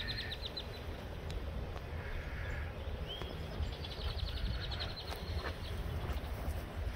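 A songbird singing in trills of rapid high notes: a short trill at the start, then a rising note and a longer trill lasting about two seconds halfway through. Under it, a low rumble of wind on the microphone.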